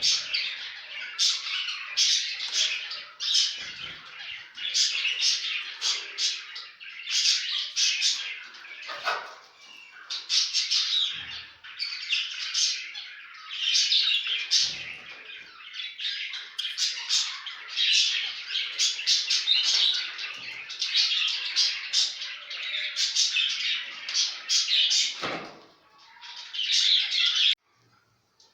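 A group of zebra finches calling continuously: many short, overlapping chirps. The sound stops abruptly about a second before the end.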